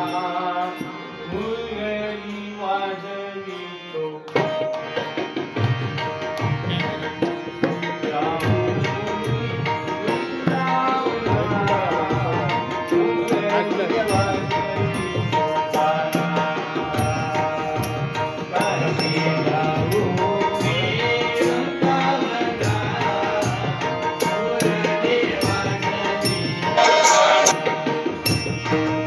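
Marathi gaulan devotional song: singing over a steady tabla-style hand-drum rhythm, growing louder near the end.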